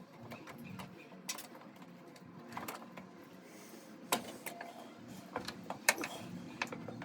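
Irregular metallic clicks and knocks of hand tools at work on an engine, with two sharper knocks about four and six seconds in, over a faint low hum.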